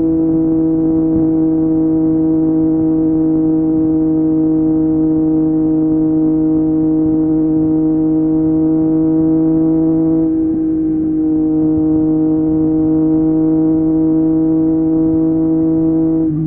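Triumph Street Triple 765 RS inline-three engine through an Akrapovic exhaust, running at a steady engine speed while cruising: one even drone that holds its pitch, with a brief wobble about ten seconds in.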